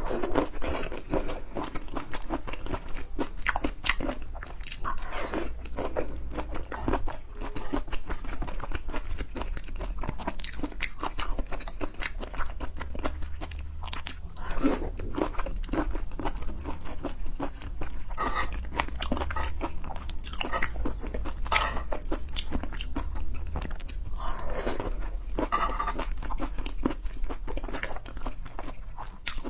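Close-up eating sounds: a person biting and chewing sauce-dressed peeled shrimp, a steady stream of many short clicks and crunches from the mouth.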